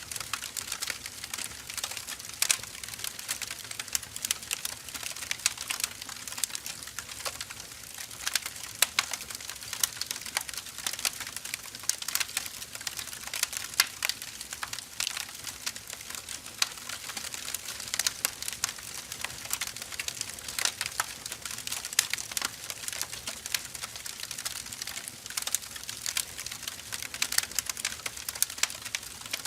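Burning firewood crackling and popping: a steady scatter of sharp, irregular snaps over a soft hiss of flame.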